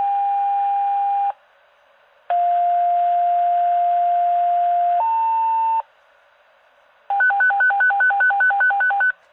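Fire dispatch alert tones over a scanner radio: a steady tone that ends about a second in, then a two-tone page, a long lower tone stepping up to a shorter higher one, then a warbling alert alternating between two pitches about six times a second for two seconds.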